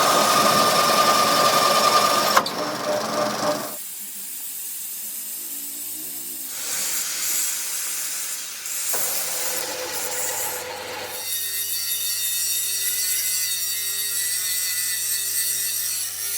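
Workshop power tool and machining noise in several short segments that change abruptly every few seconds, the last one a steady machine hum with steady tones.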